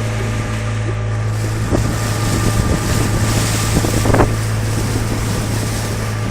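Motorboat engine running steadily at a constant low pitch, with wind buffeting the microphone and water noise.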